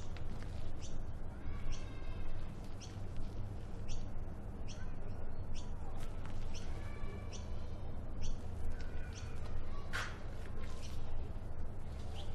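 Birds calling outdoors: short, high chirps repeating about once or twice a second, with two longer, harsher calls about two seconds in and again about seven seconds in. A single sharp click comes about ten seconds in, over a steady low rumble.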